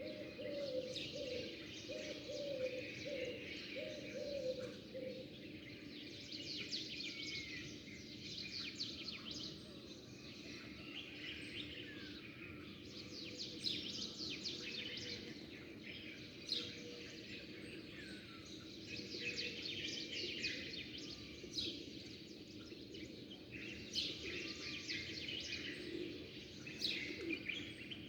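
Many small birds chirping and twittering together in a dense, continuous chorus of quick high notes. A dove coos in a run of low repeated notes for the first few seconds.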